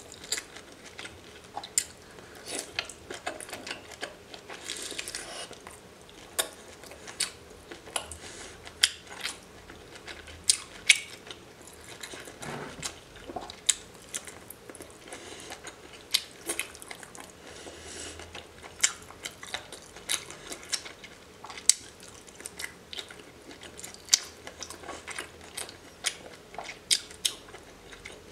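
Close-miked chewing and biting of raw seafood, with sharp mouth clicks coming irregularly, about one or two a second.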